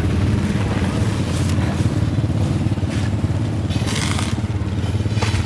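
Motorbike engine running at a steady drone.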